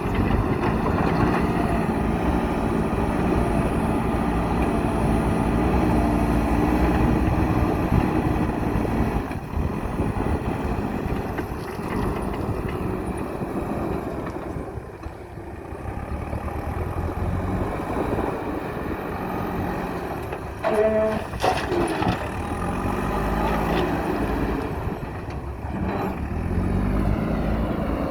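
Heavy diesel engine of a JCB backhoe loader running under load, its pitch rising and falling as it revs while working. The engine drops back about halfway through, and there is a short burst of sharp sounds about three-quarters of the way in.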